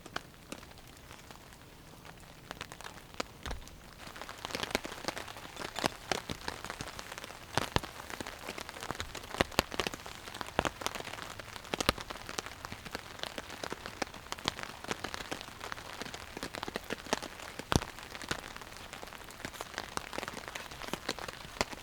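Rain falling, heard as a steady hiss full of sharp, irregular drop hits; it grows heavier about four seconds in.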